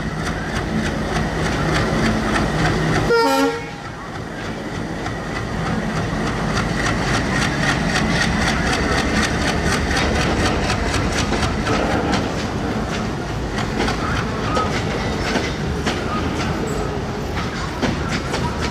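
A train carrying oxygen tankers rolls past close by, its wheels clicking rapidly and regularly over the rail joints as the wagons go by. A short horn sound comes about three seconds in.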